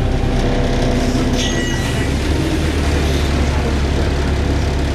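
VDL DB300 double-decker bus's diesel engine running with a steady low drone, heard from on board. The engine note changes and settles about two seconds in, just as a brief high-pitched squeal sounds.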